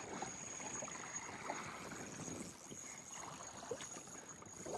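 Water lapping and sloshing against a small boat's hull, a steady wash with a few faint knocks, over a thin high-pitched steady whine.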